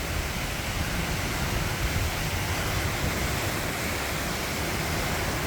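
Heavy rain and strong wind of a Florida afternoon thunderstorm, a steady rushing noise with an uneven low rumble beneath it.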